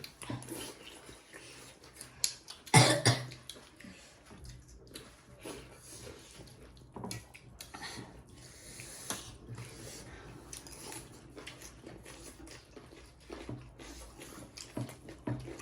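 Eating at a table: small clicks and smacks of food and dishes, with one loud cough about three seconds in.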